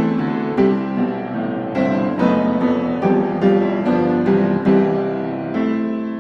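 Background piano music: a gentle melody of single notes and chords, each note struck and left to fade.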